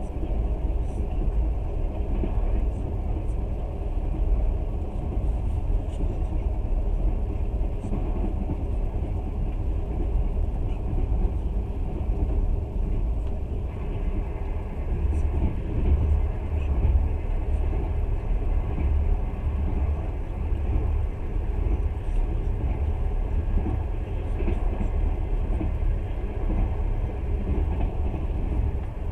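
Passenger train running at speed, heard from inside the carriage: a steady low rumble of wheels on the rails.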